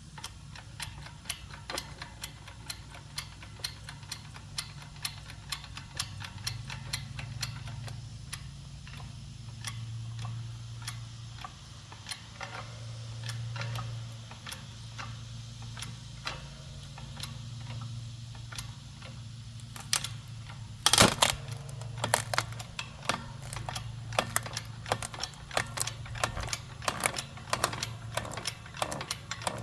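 Manual hydraulic wood splitter being hand-pumped: steady, regular clicking of the pump handle and jack, about two to three clicks a second. One loud crack comes about two-thirds of the way through, typical of a log splitting under the ram, and the clicking then grows faster and louder.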